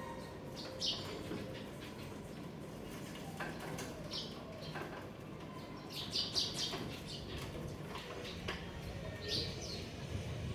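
Birds chirping: short high chirps a few seconds apart, with a quick cluster of them about six seconds in.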